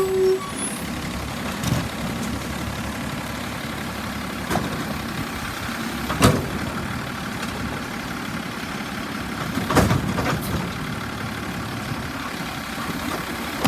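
Garbage truck engine running steadily, with several short sharp clanks or bangs, the loudest about six and ten seconds in.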